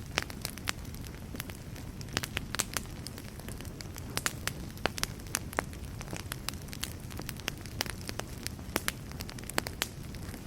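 Fire burning in a fireplace, crackling with frequent irregular sharp pops over a low steady rumble.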